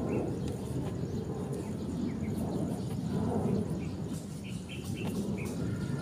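A bird chirping a few short times, most of them near the end, over a steady low outdoor rumble.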